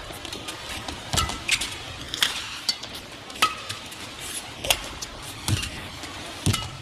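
Badminton rally: sharp cracks of rackets striking the shuttlecock, about one a second at irregular intervals, with short squeaks of court shoes, over the steady murmur of an arena crowd.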